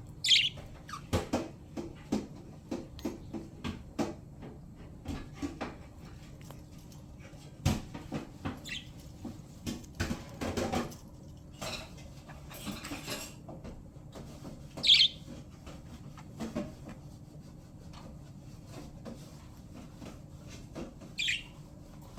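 Pet budgerigars giving a few short high chirps, spaced several seconds apart, the loudest about fifteen seconds in, amid scattered light clicks, taps and rustles.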